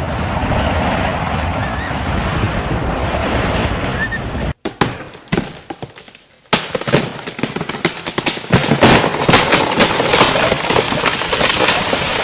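Strong storm wind buffeting the microphone as a heavy, steady rush. After an abrupt break about four and a half seconds in, a dense, irregular run of sharp cracks and knocks sets in as the gusts batter things.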